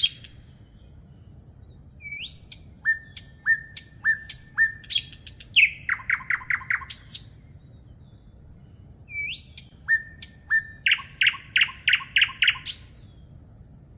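A songbird singing two phrases a couple of seconds apart. Each phrase is a short series of even notes, then a fast run of sharp notes ending in a rising note.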